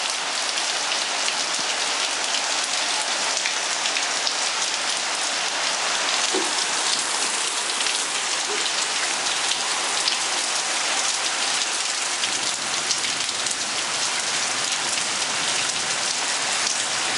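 Heavy rain falling steadily, a dense even hiss of drops splashing.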